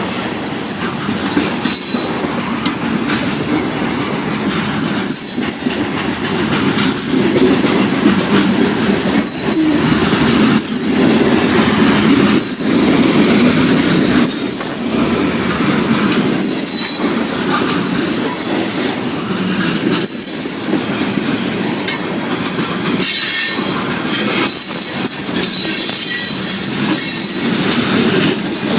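Freight train cars rolling past, steel wheels clacking over rail joints in a repeating beat, with high-pitched wheel squeal coming and going over a steady rumble.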